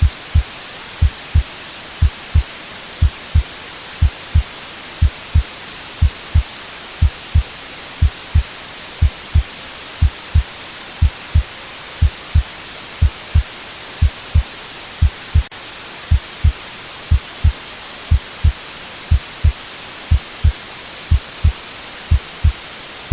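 Heartbeat sound: low double thumps (lub-dub) about once a second, over a steady white-noise hiss.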